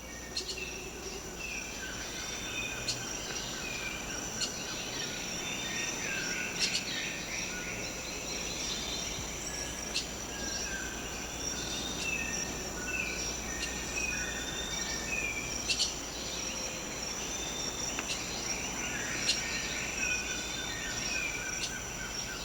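Tropical rain-forest ambience: a steady, high-pitched insect drone with many short bird whistles and chirps scattered throughout, and a few sharp ticks.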